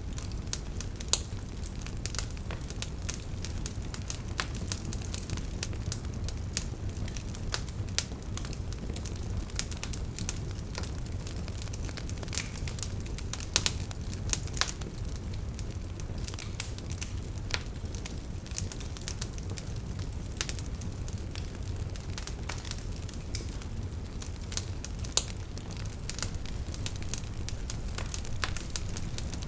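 Wood campfire crackling, with frequent sharp pops and snaps from the burning firewood over a low steady rumble.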